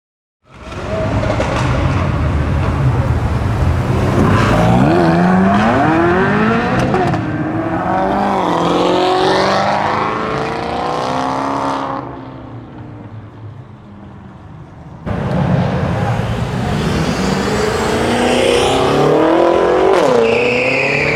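Performance car engines revving hard as cars accelerate away, the pitch climbing and falling through the revs. The sound drops abruptly to a quieter engine about twelve seconds in, then jumps back to another loud acceleration about three seconds later.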